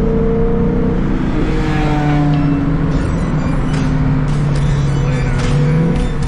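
Car engine running at freeway cruise with road and wind noise, heard from inside a moving car; the engine note drifts a little in pitch.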